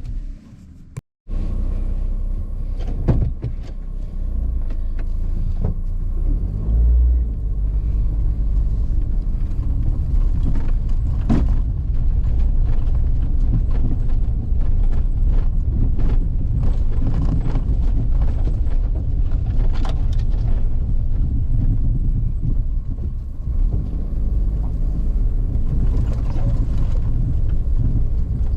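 Car driving along a forest road: a steady low rumble of engine and road noise with scattered knocks and rattles. The sound drops out briefly about a second in.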